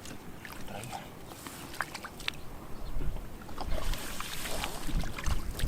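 Water sloshing and splashing, with scattered small clicks and knocks.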